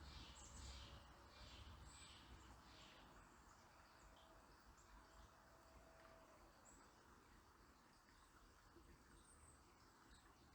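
Very faint outdoor nature ambience: a low steady rumble with a series of short high calls about twice a second that die away about three seconds in, then a few scattered faint chirps.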